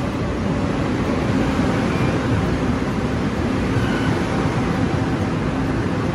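Train running on the rails: a steady, loud rumble with no separate strikes.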